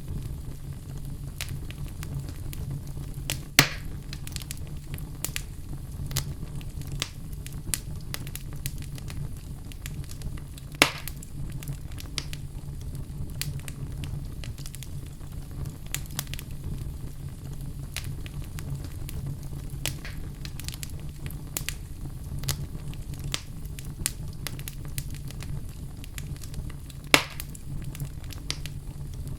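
Fire crackling: a steady low rumble with frequent small crackles, and three louder pops, the first about three and a half seconds in, one near the middle, and one near the end.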